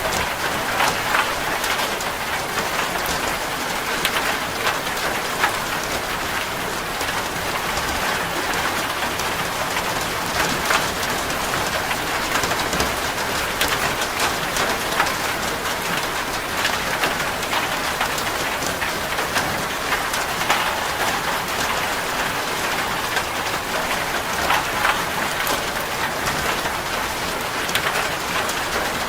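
Steady rain drumming on a corrugated zinc roof, a dense even patter of drops with scattered sharper individual hits.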